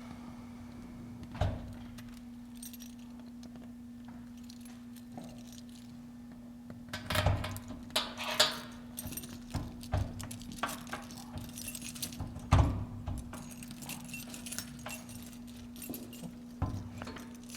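Metallic jingling and a scattered series of knocks and thuds, busiest about halfway through, over a steady low electrical hum.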